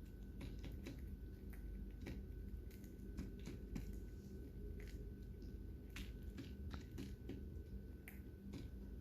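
Lovebirds cracking and husking seeds with their beaks: irregular sharp clicks, several a second, over a steady low hum.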